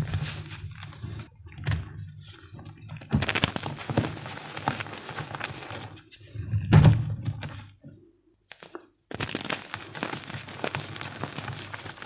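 Blocks of gym chalk being crushed and crumbled, with gritty crackling, sharp cracks and dull thumps. The heaviest thump comes about seven seconds in, followed by a short pause.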